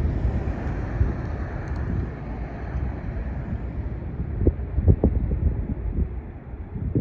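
Wind buffeting the microphone, a steady low rumble, with a couple of brief knocks about four and a half and five seconds in.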